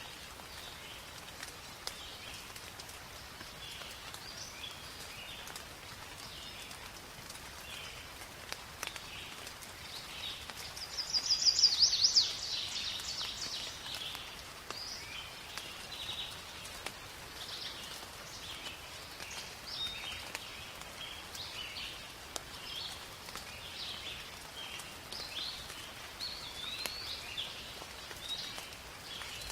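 Steady light rain falling on forest foliage, with birds calling and chirping throughout. About eleven seconds in, a loud, rapid bird trill stands out as the loudest sound.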